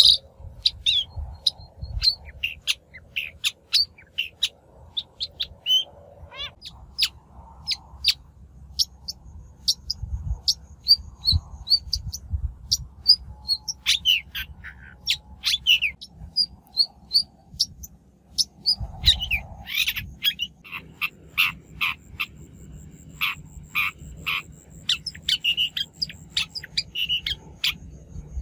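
Shrike calling in a rapid, irregular series of short, sharp notes and harsh chatters, with a low rumble underneath.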